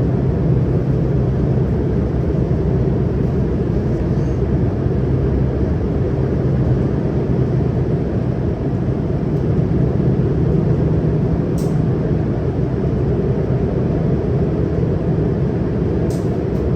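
Interior running noise of a CRRC Qingdao Sifang Type A metro train under way: a steady low rumble from wheels on rail with a constant low hum. Two brief clicks come in the last third.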